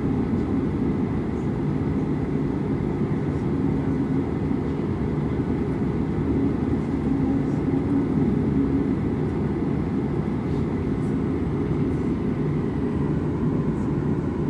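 Steady low rumble of a jet airliner's engines and airflow heard inside the cabin, with a faint steady whine above it.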